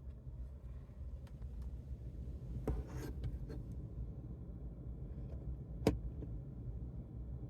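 Steady low hum of the truck's cabin HVAC blower running in heat mode, with a few handling clicks partway through and one sharp click, the loudest sound, about six seconds in.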